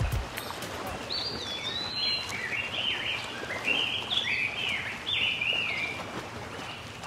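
A songbird singing a quick run of short chirping phrases starting about a second in, over steady outdoor background noise.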